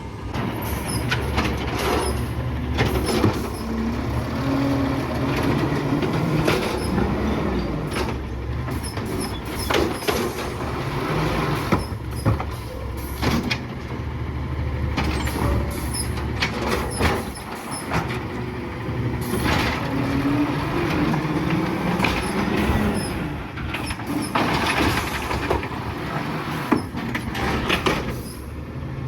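Garbage truck engine running under load, its pitch rising and falling twice as it revs, with repeated clanks and knocks of metal throughout.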